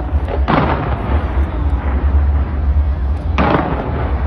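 Fireworks display going off: two heavy booms, one about half a second in and one near the end, over a steady low rumble and crackle from the barrage.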